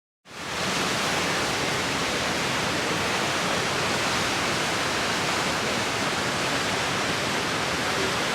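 Steady, even rush of a large waterfall, starting abruptly a moment in as the shot cuts in.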